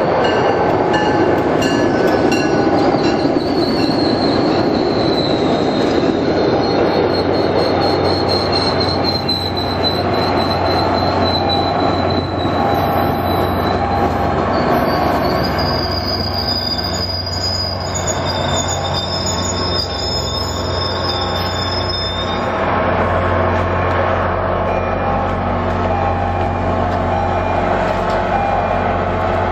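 MBTA commuter train pulling into the station, its wheels giving a high, thin squeal that slowly falls in pitch over the first several seconds as it slows. Once the train is standing, a steady low hum from the idling diesel locomotive carries on, growing louder in the last third.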